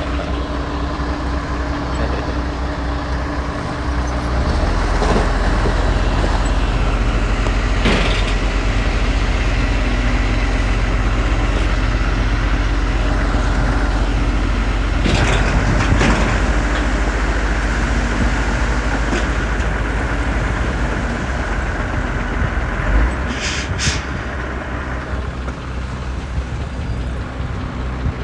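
Heavy diesel earthmoving machinery running steadily, its engine working harder from about four seconds in. A few short, sharp sounds stand out above the engine.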